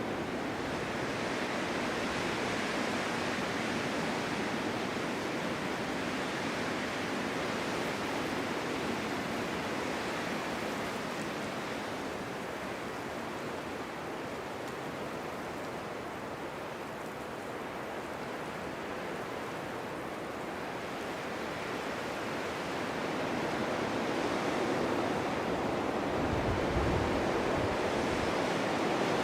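Strong winter wind blowing steadily in gusts across open ground, a continuous rushing that eases a little midway and builds again near the end.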